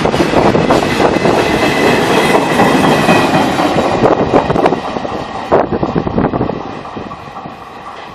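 Loaded freight train of petroleum tank wagons rolling past, the wheels clattering over rail joints with a faint high ringing from the wheels and rails. The clatter fades steadily from about five seconds in as the train moves away.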